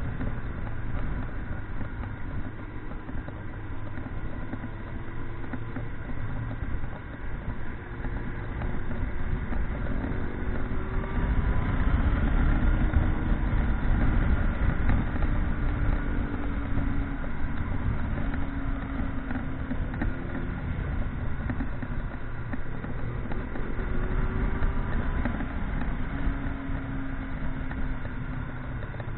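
Motorcycle engine running under way with heavy wind noise, its pitch slowly rising and falling as the revs change.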